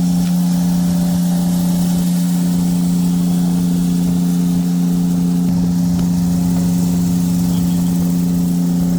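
Vehicle engine running at a steady cruising speed, a constant drone whose pitch does not change.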